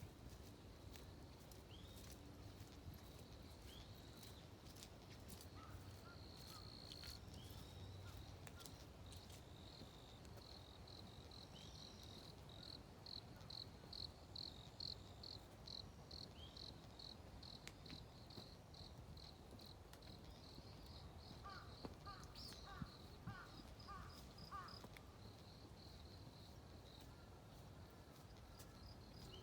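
Faint dawn birdsong: scattered high short calls, with a long run of quick repeated high notes in the middle and a brief cluster of lower calls later on.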